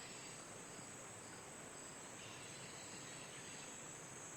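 Faint rainforest ambience: a steady, high-pitched insect chirring over a soft, even hiss.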